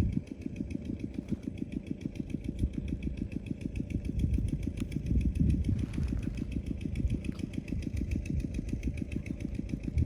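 A small engine running steadily at idle, with a rapid, even low pulsing.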